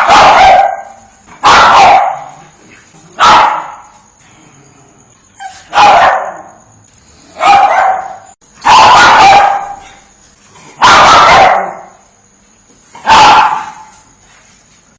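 Dog barking loudly close by: eight single barks, one every one and a half to two and a half seconds.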